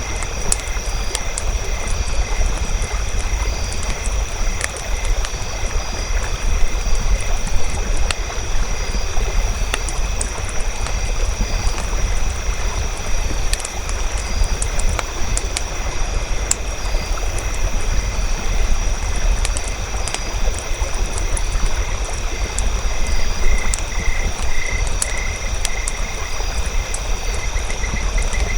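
Campfire crackling with scattered sharp pops over a steady low rumble, under a constant high trilling of night insects; a pulsing call comes in about four-fifths of the way through.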